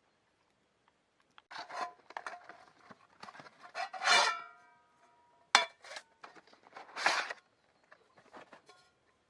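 Metal cookware and utensils clattering and scraping, several knocks followed by a short metallic ring, the loudest about four seconds in.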